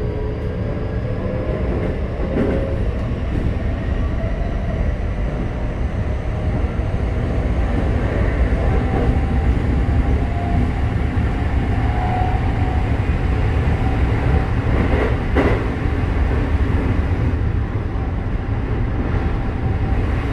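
Keikyu 1000 series electric train running, heard from inside the passenger car: a steady low rumble of wheels on rail with faint whine tones from its Mitsubishi IGBT-VVVF traction equipment. A sharp knock comes about fifteen seconds in.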